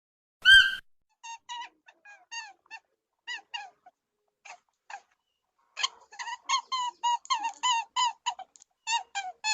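A small animal's short, squeaky pitched calls. One louder call comes about half a second in, then a string of brief chirps that grow quicker and louder in the second half, about four a second.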